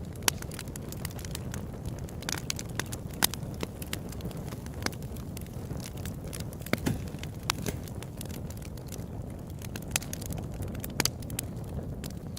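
Open-air campfire burning with a steady low rumble and irregular crackling, with a few louder pops scattered through.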